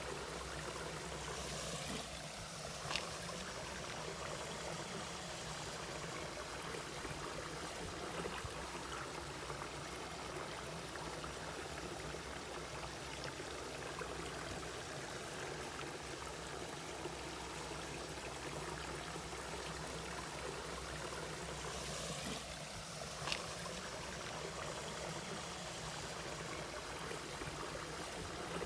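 Mountain valley stream flowing steadily over rocks. Two short, sharp clicks or splashes stand out, about three seconds in and again near the end.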